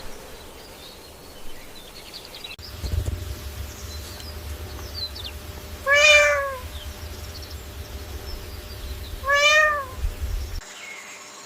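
A cat meowing twice, two short meows that rise and fall in pitch, about three and a half seconds apart, with faint high chirps in the background.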